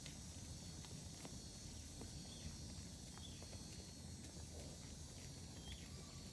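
Cattle hooves clopping irregularly on the ground as the herd walks, faint, with a few short high chirps in between.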